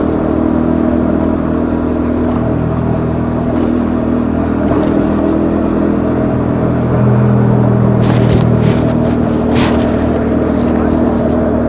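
Bajaj Dominar 400's single-cylinder engine running steadily under way, the engine note shifting lower about seven seconds in. A rushing hiss comes in and out for a couple of seconds near the end.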